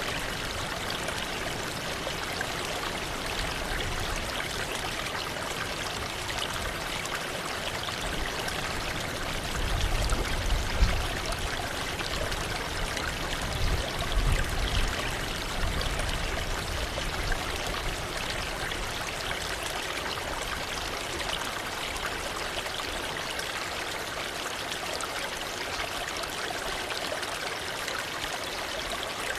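Waterfall: a steady rush of falling and splashing water. A few low rumbles push up the loudness about ten seconds in and again around fifteen seconds.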